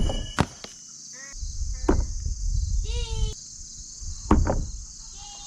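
Thrown knives striking a wooden target: a sharp hit right at the start with a brief metallic ring, a second knock just after, then further hits about two and about four seconds in. A steady high insect drone runs underneath.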